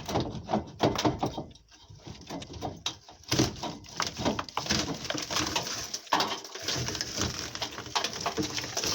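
A loosely fixed drywall partition on metal profiles, rocked back and forth by hand, creaking and knocking over and over as it flexes: the wall moves because it is poorly fastened.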